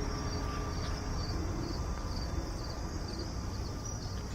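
Crickets chirping, a steady chorus of short pulsed chirps repeating evenly, over a low rumble.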